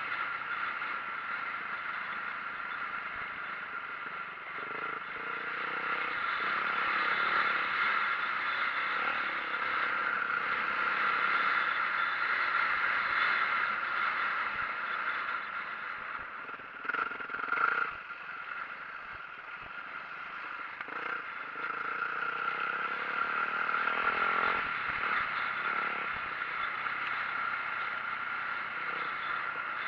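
2004 Yamaha YZ450F four-stroke single-cylinder dirt bike being ridden along a trail: steady engine running mixed with rattling and scraping, swelling and easing. A brief louder knock about two-thirds of the way through.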